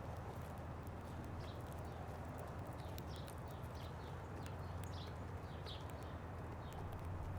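Small birds at a feeder chirping now and then in short notes, with scattered sharp clicks, over a steady low rumble.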